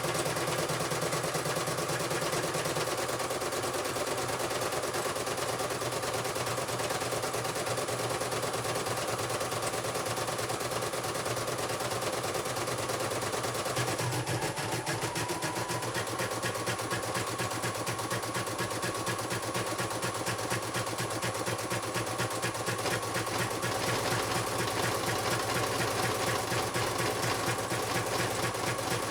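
CNY computerized embroidery machine stitching at speed: a fast, even needle rattle over a steady motor whine. The whine dips in pitch briefly about halfway through, then runs on steady.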